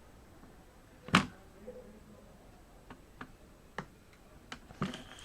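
One sharp plastic click about a second in, then a few faint taps and clicks. These come from the laptop's plastic top panel and the repair tools as the panel's keyboard studs are pried and melted loose with a screwdriver and a soldering iron.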